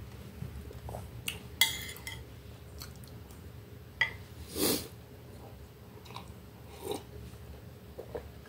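A person chewing cake close to the microphone, with wet mouth clicks and a few short knocks, the sharpest about one and a half seconds in.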